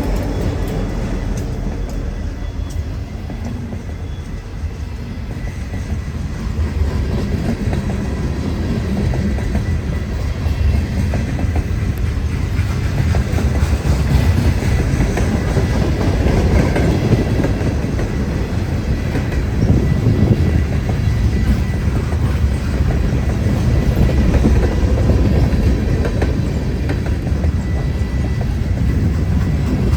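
Canadian Pacific freight train rolling past: a steady rumble of wheels on rail with clickety-clack over the rail joints, growing a little louder from about six seconds in.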